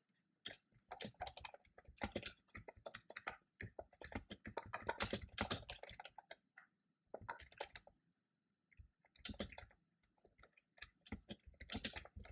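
Typing on a computer keyboard: quick runs of key clicks in bursts, with a long stretch in the first half and short pauses between later flurries.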